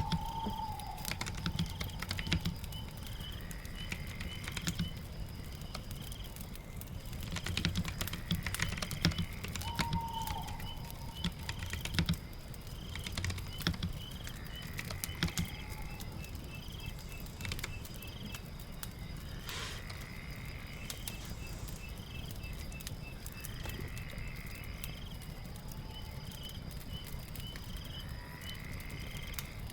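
Computer keyboard typing in scattered bursts of clicks, busiest in the middle, over a steady low rain-and-fire ambience. Short chirping calls recur every few seconds throughout.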